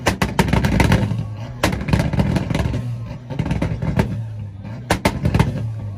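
Car engine held on a two-step launch limiter: a steady drone broken by sharp bangs and crackles from the exhaust, in rapid clusters at the start, about a second and a half in, and again near the end.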